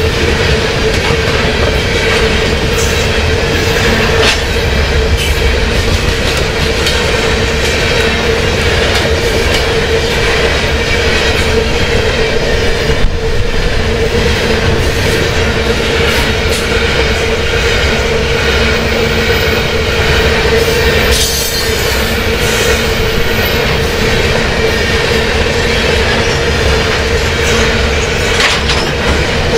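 Loaded potash covered hopper cars rolling past at about 40 mph: a steady, loud rumble of steel wheels on rail with a constant whine. Sharp clicks and bangs from the wheels and couplers come now and then, the loudest about 13 seconds in.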